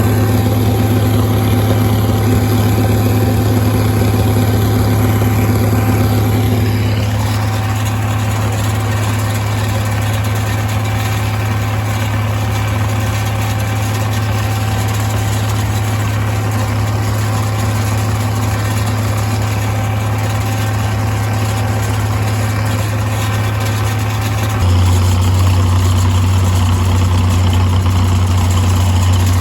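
Tractor engine running steadily at a constant speed. About 25 seconds in, its pitch drops suddenly to a lower, louder hum.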